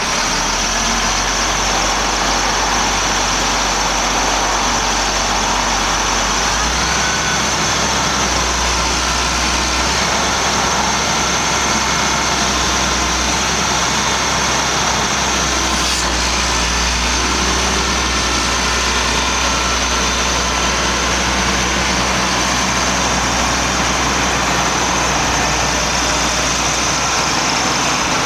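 Caterpillar M325C MH material handler's diesel engine running steadily, its low hum stepping slightly higher about seven seconds in.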